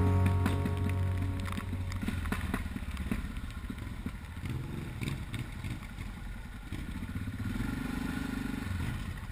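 Yamaha XT660Z Ténéré's single-cylinder engine running at low revs, with scattered clattering and rattling, after music fades out in the first second or so.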